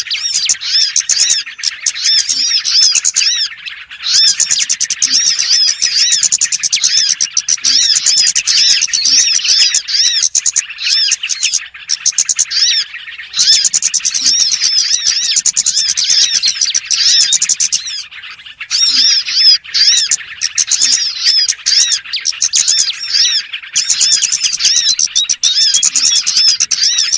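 Bird-lure recording of small songbirds chirping busily: rapid high, arching chirps in quick succession, with a few short pauses. It is a call used to draw small birds in.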